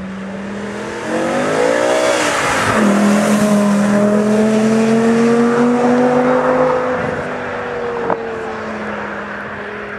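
Hamann Thunder BMW E92 M3's swapped-in V10 engine accelerating hard past, close up. It gets loud about a second in, its pitch climbs, drops sharply near three seconds in, then climbs slowly, and it fades as the car pulls away after about seven seconds.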